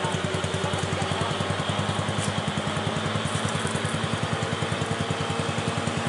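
An engine idling steadily with an even, low pulsing beat of about ten pulses a second.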